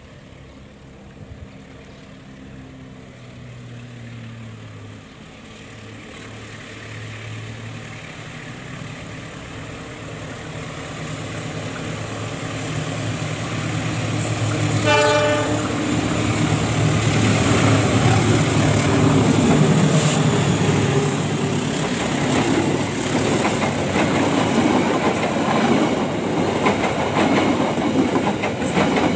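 An Indonesian passenger train hauled by a CC 206 diesel-electric locomotive approaches and passes: the locomotive's engine hum grows steadily louder, with a brief horn blast about halfway through. The coaches then roll past with loud wheel clatter over the rail joints.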